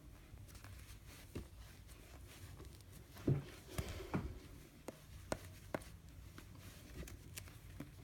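Light handling sounds of crocheting: a metal crochet hook and yarn rustling and clicking as stitches are worked into a stuffed toy. There is a louder soft knock about three and a half seconds in, followed by several sharp little clicks over the next two seconds.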